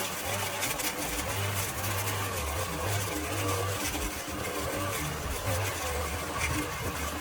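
An engine running, its low hum swelling and easing every half second or so.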